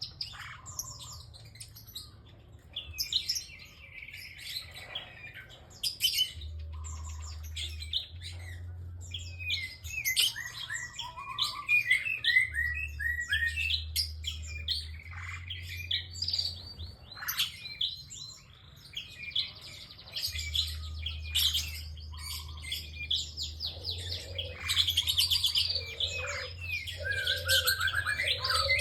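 A prinia (prenjak) singing vigorously: rapid runs of sharp chirps and trills, with few pauses. A faint low hum comes and goes underneath.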